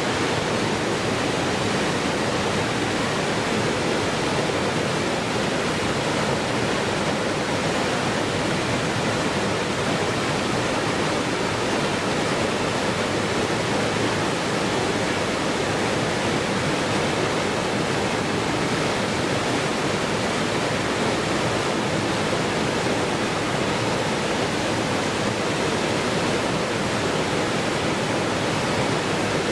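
Waterfall rushing, a steady, even noise that does not change.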